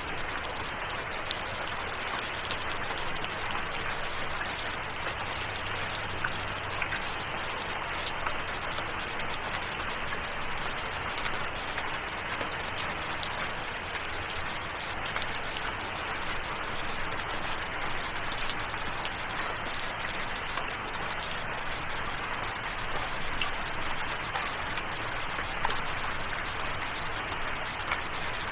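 Steady rainfall, an even hiss with individual drops ticking sharply here and there.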